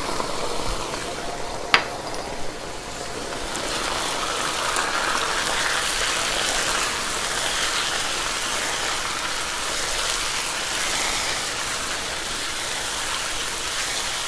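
Chicken pieces sizzling in oil in a wok as they are stir-fried with a silicone spatula, coated in freshly added ground spices. The sizzle grows louder about three and a half seconds in and then holds steady, with a single sharp click just before two seconds.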